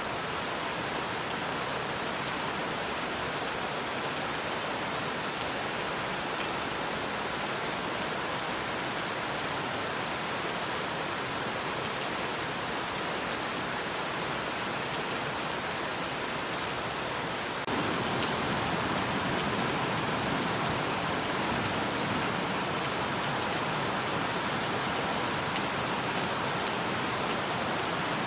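Steady rainfall, an even hiss of drops on surfaces that steps up suddenly to a louder, fuller downpour about two-thirds of the way through.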